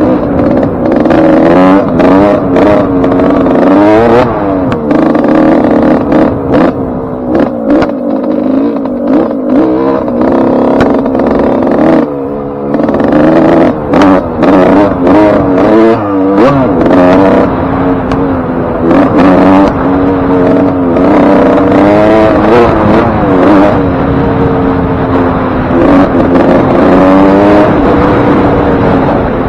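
Suzuki RM125 two-stroke single-cylinder dirt-bike engine being ridden, revving up and dropping back over and over as the throttle opens and closes, on a freshly rebuilt top end (new piston ring and wrist pin). Frequent short knocks and rattles run through it.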